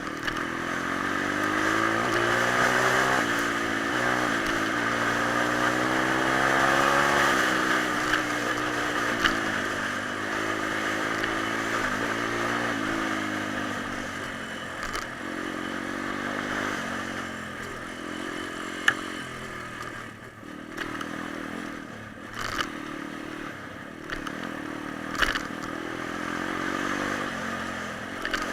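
Pit bike's small single-cylinder four-stroke engine being ridden, revving up and down with its pitch rising and falling, hardest in the first several seconds. A few sharp clicks stand out in the second half.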